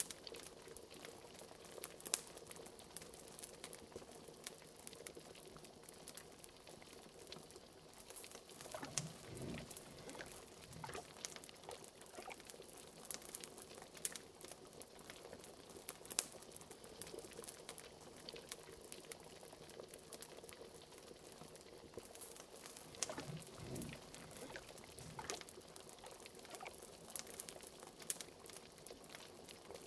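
Liquid bubbling in a cauldron, with a few deeper gloops, over a fireplace crackling with many small sharp pops.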